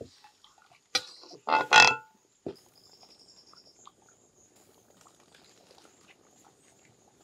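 A clank about a second in and a louder, short rasping sound just after, then a mutton curry simmering faintly in a steel kadai over a firewood fire, with insects trilling steadily.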